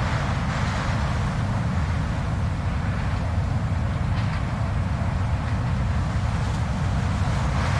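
Blizzard wind blowing steadily, a deep low rumble under a hissing layer, with a few slightly stronger gusts.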